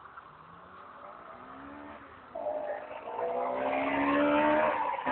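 Honda Integra Type R DC5's K20A four-cylinder engine accelerating hard, its note climbing steadily in pitch. It starts faint, becomes much louder about two seconds in, and keeps rising.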